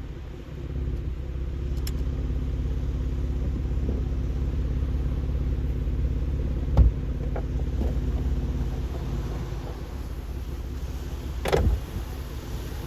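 Jeep engine running steadily at low speed while crawling over snow, with a sharp thump about seven seconds in and another clunk near the end.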